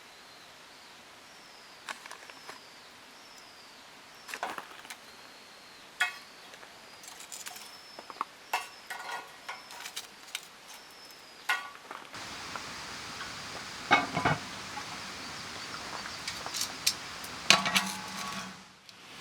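Scattered clinks and knocks of camp cookware and utensils being handled, over a steady background hiss that rises about twelve seconds in.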